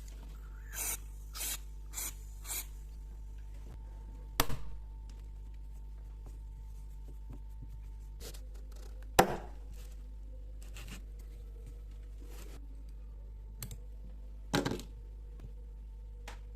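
Hand-tool work on small carburetor parts: four short scraping strokes in quick succession, then three sharp knocks spaced a few seconds apart, over a steady low hum.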